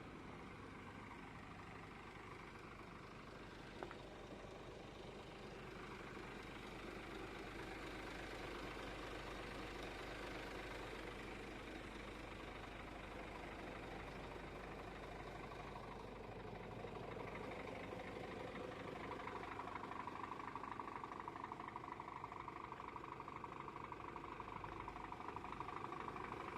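Scania truck engine running steadily, with a tone that firms up and grows a little louder in the second half.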